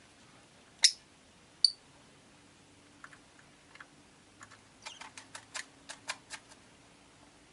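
Rosy-faced lovebirds in a cage: two short, sharp chirps less than a second apart near the start, then a run of quieter quick clicks and taps lasting a few seconds.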